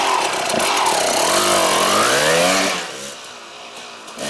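KTM 200 EXC single-cylinder two-stroke engine revving under a rider, its pitch climbing and falling as the throttle is worked. About three seconds in it drops back much quieter, then picks up again at the end.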